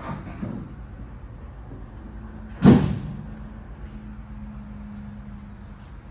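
A vehicle door shutting once, a little before the middle, followed by a faint, steady low hum.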